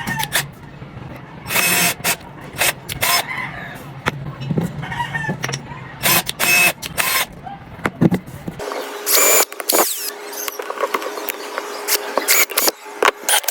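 A run of sharp clicks, knocks and clatter, like hand tools and small parts being worked, with a few brief high squeaks. The background changes abruptly a little past halfway.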